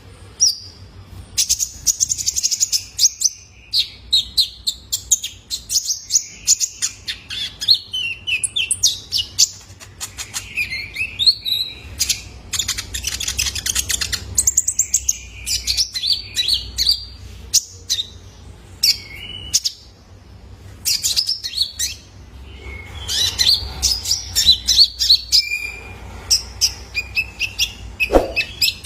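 Young male konin (kolibri ninja, a sunbird) singing: rapid high chip notes and twittering trills in long busy runs, broken by a couple of short pauses.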